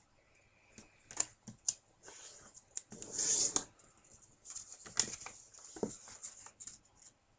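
A square sheet of paper being folded and creased by hand: scattered crisp crinkles and taps, with a louder rustle of the paper a little after three seconds in.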